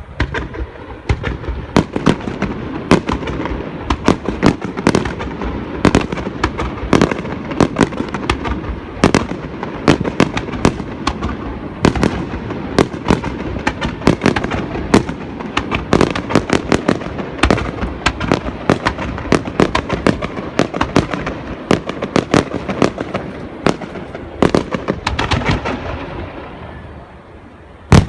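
Starmine fireworks barrage: aerial shells bursting in rapid succession, many sharp bangs a second over a continuous rumble. The bangs thin out and fade near the end, then one very loud bang comes at the very end.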